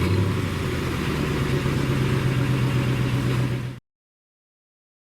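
Car engine idling steadily, then cutting off suddenly about four seconds in.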